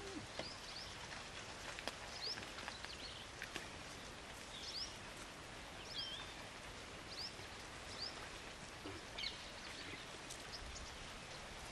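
Small birds giving short, rising chirps every second or so over a steady background hiss.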